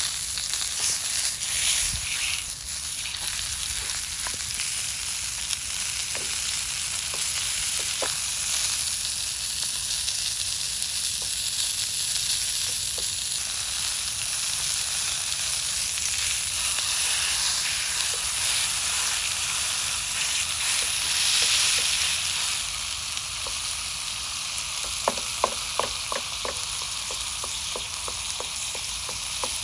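Breakfast frying in a pan on a small gas camping stove: a steady sizzle, with a quick run of small clicks near the end.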